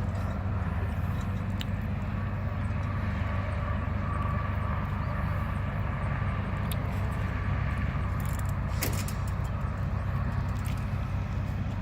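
A truck's engine idling steadily, with scattered light clicks and a short burst of rattling clicks about nine seconds in.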